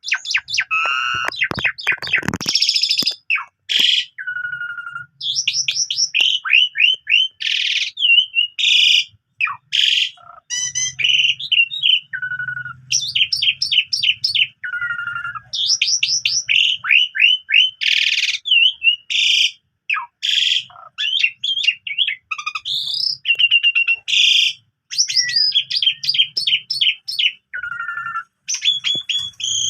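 Asian pied starling (jalak suren) singing a long, varied song packed with mimicked phrases: rapid chirp series, whistled slides and trills, one phrase after another with short pauses between.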